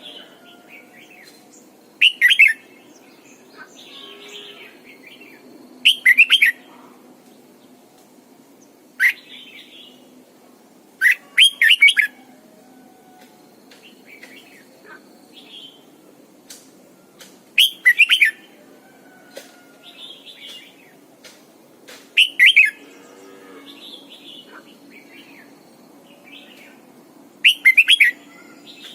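Red-whiskered bulbul singing: seven short, loud, bright song phrases a few seconds apart, with softer calls in between.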